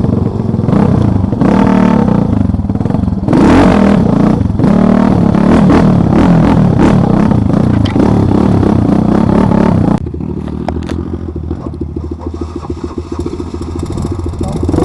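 Motorcycle engine revving hard under load, its pitch rising and falling. About ten seconds in it drops suddenly to a quieter, steadier running.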